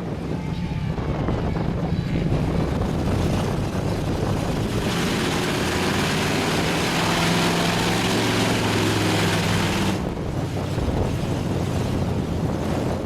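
Big mud truck's engine running, revving hard for about five seconds in the middle with a loud rushing noise over it, then dropping back.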